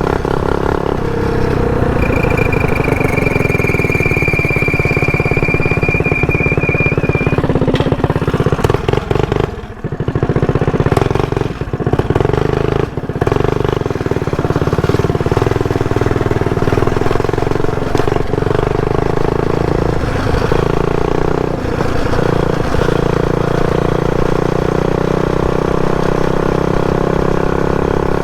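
Mini bike's single-cylinder 212cc Predator engine running steadily under throttle while riding. The sound dips briefly about ten seconds in, and again a couple of times shortly after, as the throttle is eased. A thin high steady tone sounds for about five seconds near the start.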